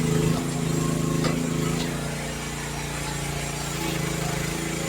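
Youtop YT15 mini excavator's engine running steadily while digging, louder over the first couple of seconds and then settling. A few short knocks sound in the first two seconds.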